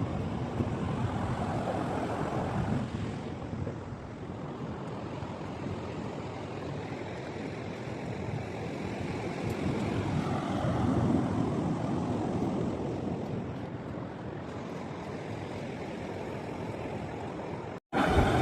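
Ocean surf washing onto a beach, swelling and easing as waves come in, with wind on the microphone. It cuts off suddenly near the end.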